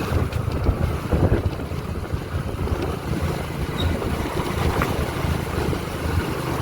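Wind rushing and buffeting over the microphone of a moving motorcycle, with the engine's low rumble running underneath.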